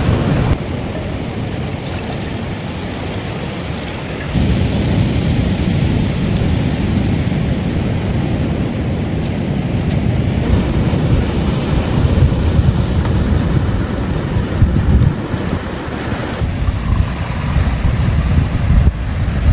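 Surf washing on a beach, with wind rumbling on the microphone; the sound drops abruptly about half a second in and comes back up about four seconds in.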